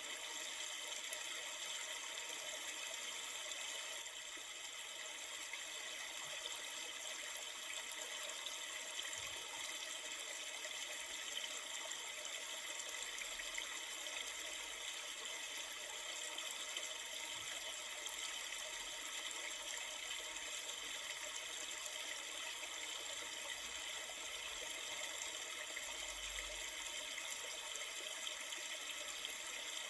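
River water flowing: a steady rushing and trickling that does not change.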